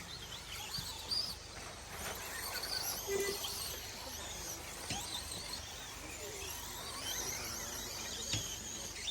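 Electric 1/10 scale short course RC trucks racing: faint high-pitched motor whines that rise and fall in pitch as the trucks accelerate and slow, over a steady background hum.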